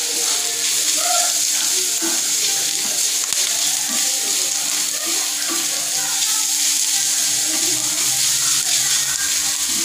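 Grated carrot and chopped vegetables sizzling in butter and oil on a flat griddle (tava), stirred and scraped around with a wooden spatula.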